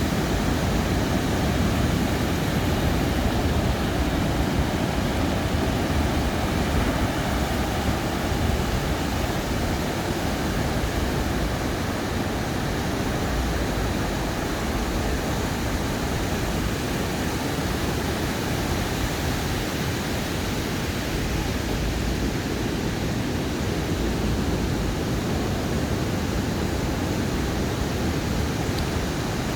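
Ocean surf breaking and washing up a sandy beach: a steady wash of noise with a heavy low rumble, easing slightly about halfway through.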